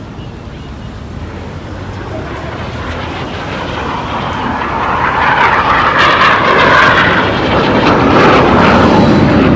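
Fixed-wing aircraft flying low past, its engine noise growing louder over about five seconds and then staying loud.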